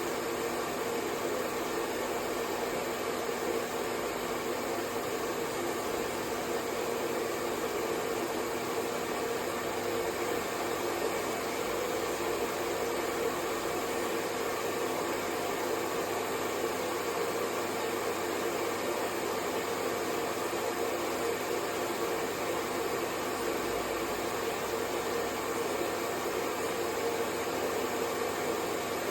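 Hair dryer blowing steadily: an even whoosh of air with a faint motor hum, unchanging throughout.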